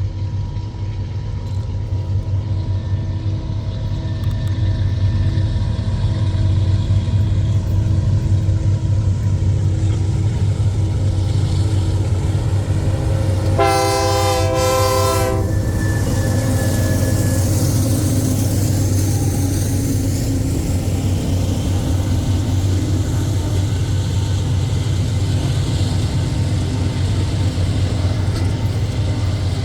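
Freight train running past with a steady heavy rumble that builds over the first several seconds; the locomotive's horn sounds one blast of about a second and a half near the middle.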